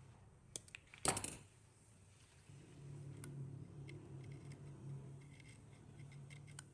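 Hand work on small parts: a couple of light clicks, a short sharp scraping or cutting noise about a second in, then a faint low hum with scattered light ticks.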